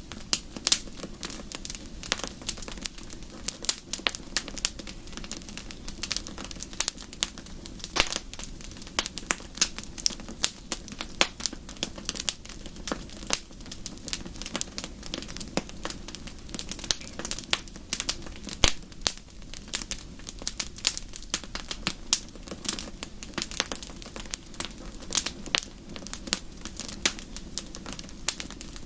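Wood fire crackling and popping in a fireplace: a dense, irregular stream of sharp snaps over a low steady rumble of the flames.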